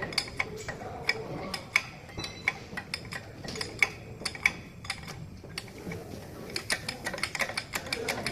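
Irregular light metallic clicks and taps of hand tools working on truck suspension parts, several a second.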